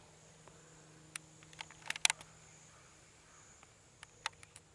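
Scattered sharp clicks and taps, loudest in a quick cluster about two seconds in, over a steady high-pitched insect drone.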